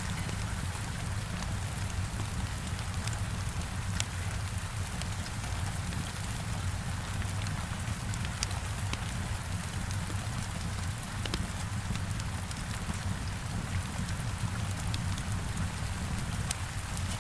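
Heavy rain hitting a window in a steady hiss, with a low rumble underneath. A wood fire crackles in scattered sharp pops over it.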